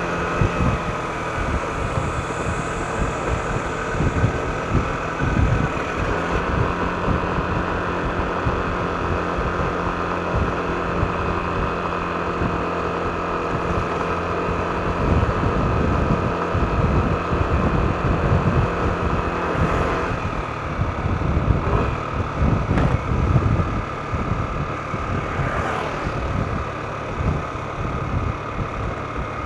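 Yamaha NMAX scooter engine running with road noise, a steady hum over a low rumble; the engine tone shifts about twenty seconds in.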